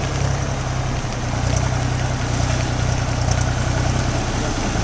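Tractor's diesel engine running at a steady, low throb, over a constant rushing hiss.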